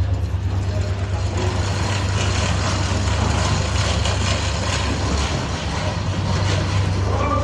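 Volkswagen Crafter van running on its swapped-in Toyota 3UZ-FE V8, a steady low drone.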